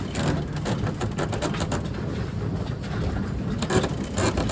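Sailboat under way: a steady rush of wind and water, with runs of quick irregular clicks from a sheet winch being cranked to trim the sail.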